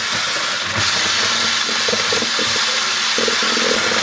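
Electric appliance motor, switched on just before, running loud and steady with a strong hiss and a faint low hum.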